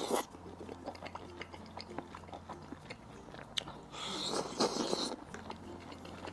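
Close-miked biting and chewing of a crayfish skewer coated in sesame paste: soft wet mouth sounds with scattered small clicks. A louder bite comes about four seconds in.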